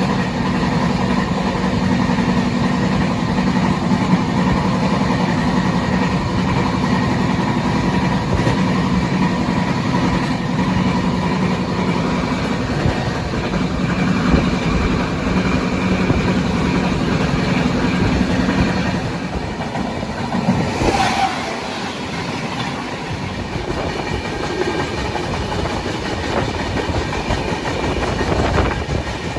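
Indian Railways express train running on the rails, its wheels clicking steadily over the track, with a low steady hum that drops away about two-thirds of the way through.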